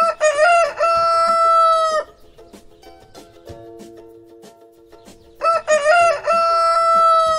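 Rooster crowing twice, a few seconds apart: each crow is a few short broken notes and then one long held note, about two seconds in all. Quiet background music plays underneath.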